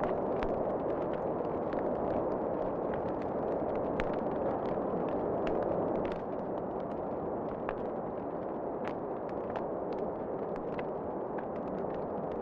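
Wood fire crackling, with irregular sharp pops and snaps over a steady rushing sound of wind. The rushing drops a little about halfway through.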